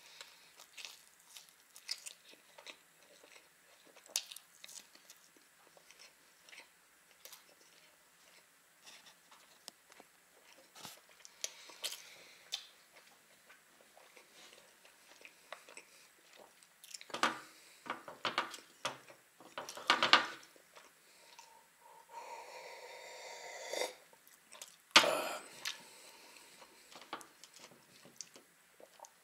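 Close-up, fairly quiet chewing of a slice of soft baked fish pie, with many small wet mouth clicks and a few louder bites or smacks in clusters past the middle and near the end. A breathy rasping sound is heard for about two seconds shortly before the last loud cluster.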